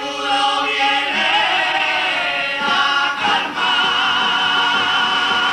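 Carnival comparsa chorus singing long, sustained chords at the close of a song, with a brief break about three seconds in before a last held chord.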